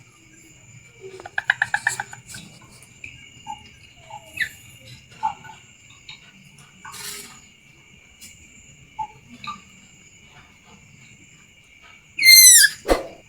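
Calls of a young dedes bird: a rapid trill about a second and a half in, scattered short chirps, then a loud call sweeping downward near the end, over a steady high insect buzz.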